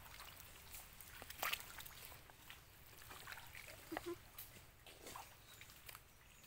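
Faint scattered clicks and knocks from clam digging in wet sand and shallow water, with light trickling. A short squeal comes about four seconds in.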